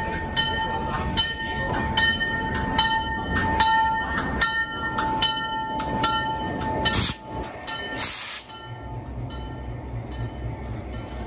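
Train passing on the rails, with a steady high squeal and a ringing that repeats about twice a second. About two-thirds of the way in come two short hissing bursts, after which the sound drops and a low rhythmic thudding carries on.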